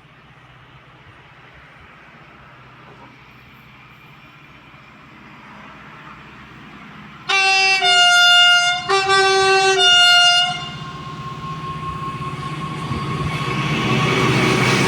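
An approaching train, its low rumble growing steadily louder, sounds two long blasts on its two-tone horn about halfway through, each blast stepping down to a lower note. It then comes on louder as it nears the platform.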